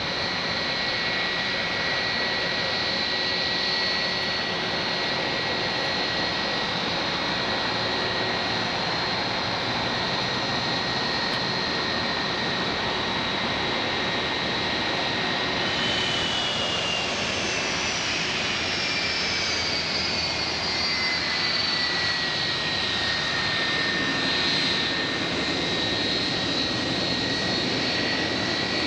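Boeing 757-200F cargo jet's engines running steadily with a high whine over a broad rush; about 16 seconds in the whine falls in pitch over several seconds, then holds steady.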